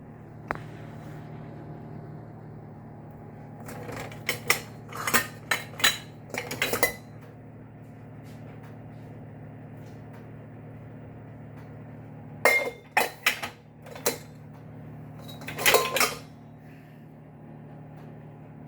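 Crockery and cutlery clinking as they are handled, in three bursts of knocks and clatters, over a steady low hum.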